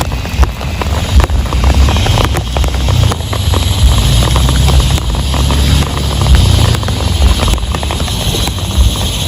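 Heavy rain falling: a dense, continuous patter of drop impacts over a loud low rumble.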